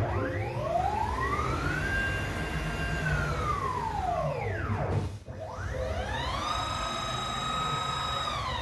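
A 5-axis CNC router's axis motors whining as the machine moves: the pitch rises as an axis speeds up, holds steady during the traverse, and falls as it slows. This happens twice, with a short break about five seconds in, over a constant low running hum.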